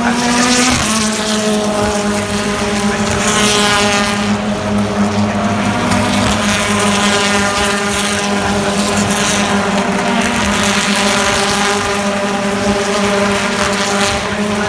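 British Touring Car Championship race cars' engines running at high revs on the circuit, a steady engine note held throughout with swells of rushing noise as cars go by.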